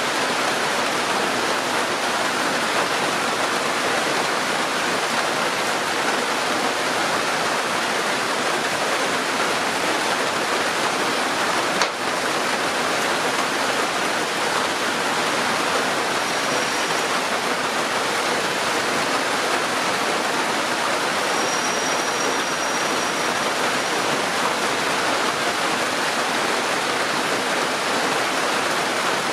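Heavy rain pouring steadily onto trees and foliage, an even hiss throughout, with one short click about twelve seconds in.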